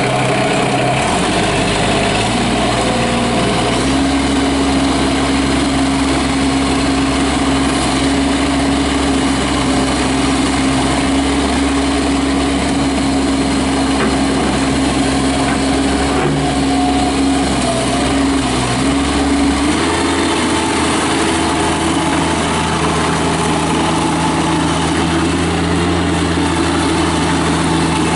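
Bobcat MT85 mini track loader's Kubota diesel engine running just after start-up, its steady pitch stepping up about a second in and again around four seconds, then shifting once more about twenty seconds in.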